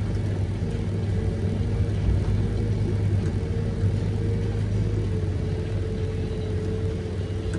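Forwarder's diesel engine running steadily under load, heard from inside the cab as a low hum with a steady whine above it.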